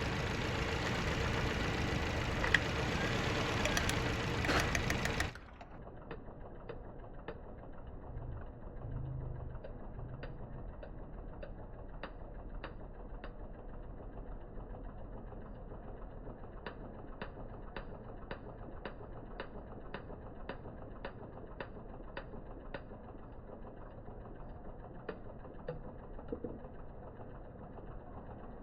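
Toyota Corolla GLI engine running with a light, regular ticking. It is loud and full for about five seconds, then suddenly drops to a quieter, muffled run, with sharp ticks about two a second that come and go.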